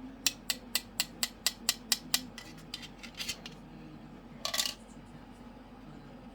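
A run of sharp, evenly spaced clicks, about four a second, then a few irregular clicks and a short rattle about four and a half seconds in, from the toy the cockatoo is pulling apart.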